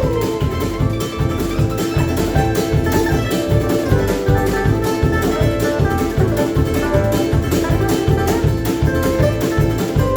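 Live acoustic band music: plucked strings, among them a ukulele, playing a fast tune over a quick, steady drum beat with cymbal.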